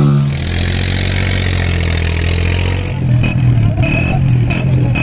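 125cc motorcycle engine running loudly, its note shifting to a different steady pitch about three seconds in.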